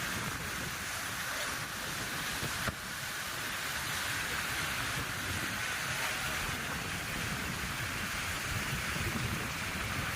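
Steady rush of wind and sea surf at a rocky shoreline, with one short click a little under three seconds in.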